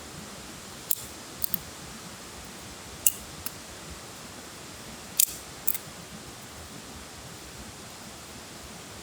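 A handful of short, sharp high clicks or snaps, in irregular pairs about a second in, at three seconds and past five seconds, over a steady background hiss.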